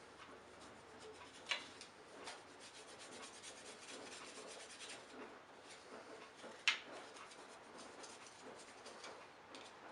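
Rapid back-and-forth rubbing on the Hoover Senior vacuum cleaner's body, buffing at scratches in the finish, faint and steady, with two sharp clicks about a second and a half in and near the middle.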